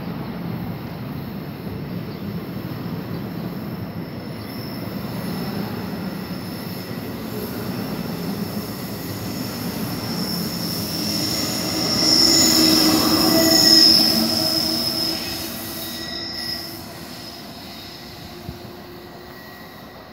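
Bi-level commuter train pulling away, its cars rolling past with a steady rumble. About twelve seconds in, the ALP-46A electric locomotive pushing at the rear passes with a loud high-pitched squeal and whine, and the sound fades as the train leaves; the locomotive was slipping its wheels on this departure.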